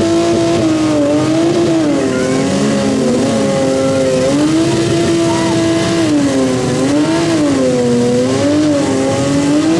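Demolition derby car engines revving hard and held high, the pitch dipping and rising every second or so. A second engine is briefly heard against the first.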